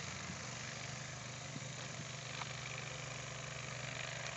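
A vehicle engine idling steadily: a low, even hum under a constant hiss.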